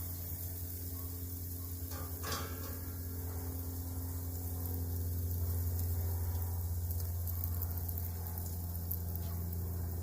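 Marinated chicken breasts sizzling on a hot grill grate: a steady crackling hiss over a constant low hum, with a brief louder noise about two seconds in.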